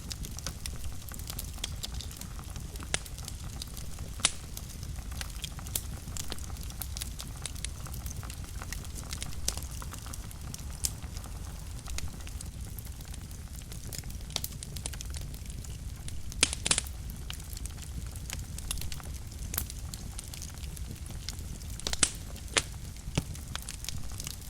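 Wood fire burning in a fireplace: a steady low rumble of flames with scattered sharp crackles and pops, the loudest about 4, 16 and 22 seconds in.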